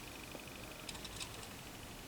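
A few faint, light clicks of small parts being handled at a workbench about a second in, over low room hiss and a faint steady high whine.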